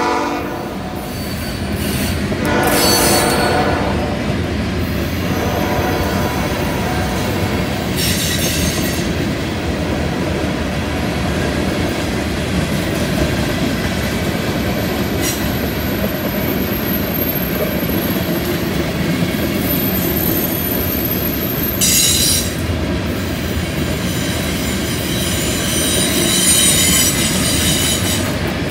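Freight train cars rolling past at trackside, a steady rumble of steel wheels on rail. Short bouts of high-pitched wheel squeal from the flanges on the curve come a few seconds in, around eight seconds, a little past twenty seconds and again near the end.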